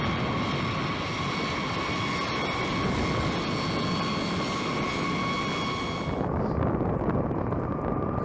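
A turbine engine runs steadily: a high whine with several tones over a rushing roar. The upper part of the whine drops away about six seconds in, and the lower tone continues.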